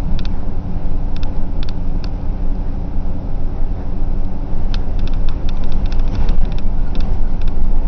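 Diesel route bus running on the road: a steady engine and road rumble, with clusters of light clicks and rattles about five to six seconds in.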